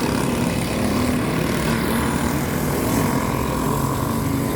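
Racing go-kart engines droning together at speed, with one engine's pitch rising slightly about three seconds in.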